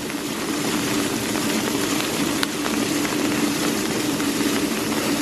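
Steady, even hiss of rain with a constant low hum running underneath, and one faint tick a couple of seconds in.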